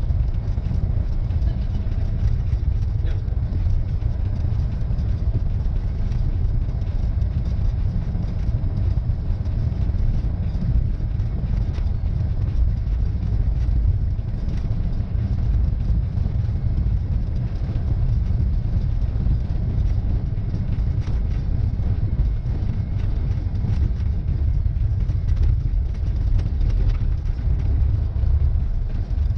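Steady low drone of a Cessna 172N's engine and propeller, running evenly without change in pitch.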